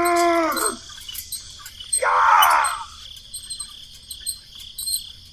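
Crickets and insects chirping steadily, with two louder calls over them: one pitched, about a second long, rising then falling at the start, and a harsher one with falling pitch about two seconds in.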